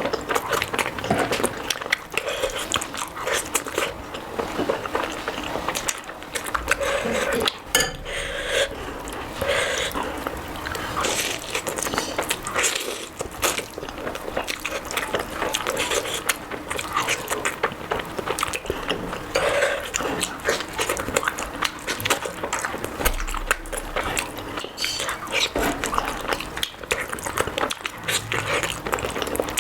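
Close-miked eating sounds: a person chewing and smacking on mouthfuls of food, a continuous run of quick wet clicks and squelches.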